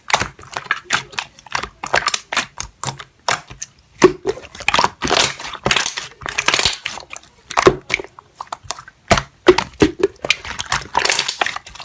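Slime being squeezed and pressed by hand, giving a dense, irregular run of wet clicks, pops and crackles.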